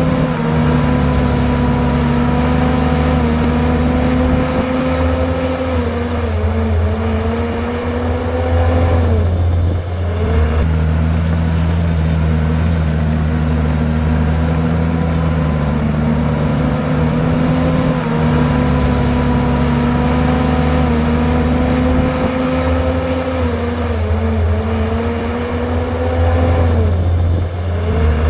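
Komatsu bulldozer's diesel engine running hard under load, its pitch sagging and then dipping sharply about ten seconds in and again near the end before picking back up.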